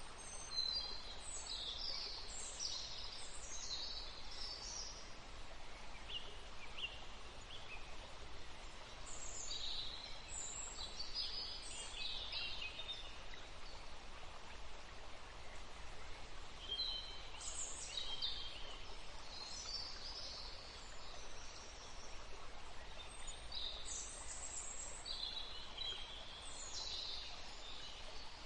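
Forest songbirds chirping in quick, high-pitched bouts, four bursts of song with short gaps between, over a steady soft hiss of breeze.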